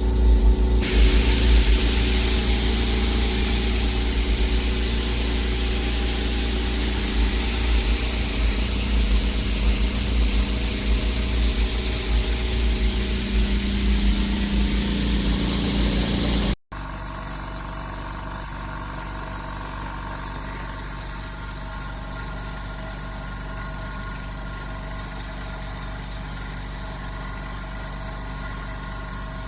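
APOLLOTECH 10 L oil-less air compressor running steadily, its motor and pump humming with a bright hiss over it. About halfway through the sound breaks off and carries on quieter and steadier.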